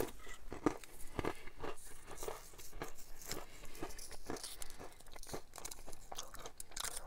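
Close-up mouth sounds of someone chewing and biting crackers: a run of short, crisp crunches.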